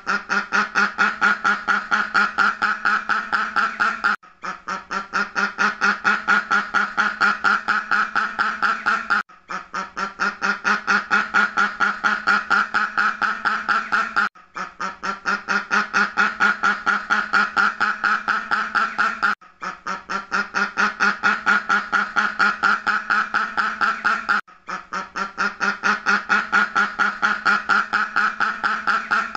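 Duck quacking rapidly and without pause, several quacks a second, in stretches of about five seconds broken by brief gaps. The same sequence repeats each time, as a looped recording.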